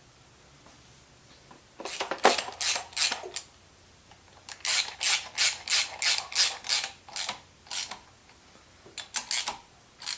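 Hand ratchet wrench clicking through short back-and-forth strokes, about three a second, in three bursts with pauses between, running bolts of a harmonic balancer puller into the crank pulley.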